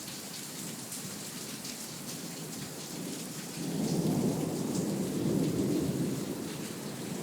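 Heavy rain pouring down steadily, with a roll of low thunder swelling up about halfway through and fading near the end.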